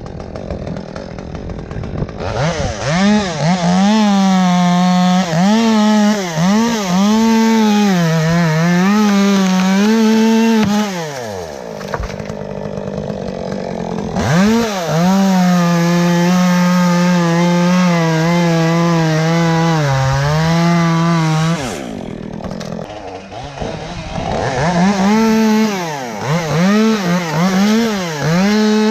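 Chainsaw revved high and cutting elm wood in two long cuts, the pitch dipping and wavering as the chain bites. Between the cuts it drops back toward idle, and near the end it is blipped up and down.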